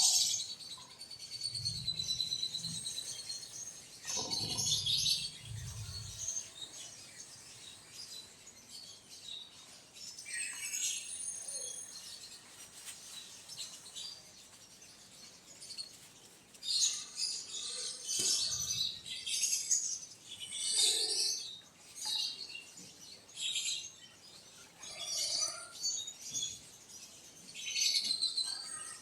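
Small birds chirping in short repeated bursts, with a few low dull thuds in the first several seconds.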